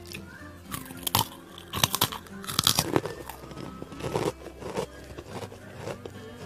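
Crunchy fried snack stick being bitten and chewed: loud crunches about one to three seconds in, then softer, irregular chewing crunches.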